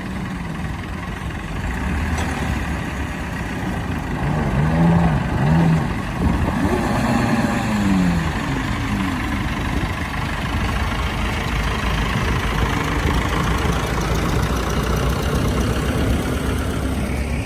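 Tractor engine, taken by onlookers for a Massey Ferguson, running steadily under load as it tows a speedboat up from the water. Its pitch rises and falls a few times a few seconds in.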